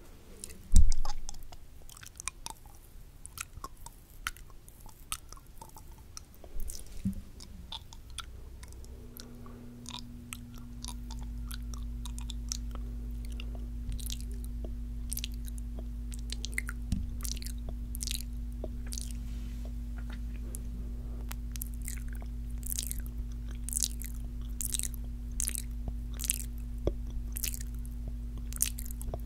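Close-miked ASMR mouth sounds: many quick, sharp wet clicks, sparse at first and coming faster in the second half, with one loud knock about a second in. A steady low hum sets in about a third of the way through and stays.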